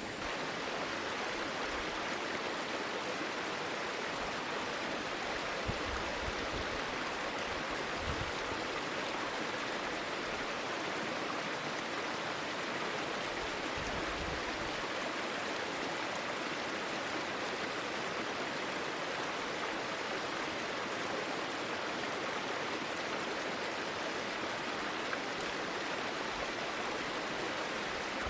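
Steady rushing of running water, an even, unchanging wash of noise.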